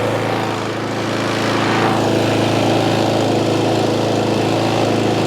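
Craftsman M270 lawn mower's 159cc single-cylinder four-stroke engine running steadily at speed, its tone turning a little brighter about two seconds in.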